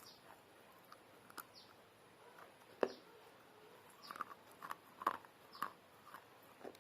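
Pieces of baked clay pot being bitten and chewed, giving sparse crisp crunches: a single loud one about three seconds in, then a quick run of them a second later.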